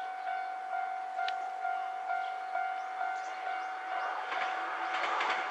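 JNR 113 series electric train running, with a steady ringing tone that pulses about twice a second. The running noise grows louder and rougher in the last second and a half.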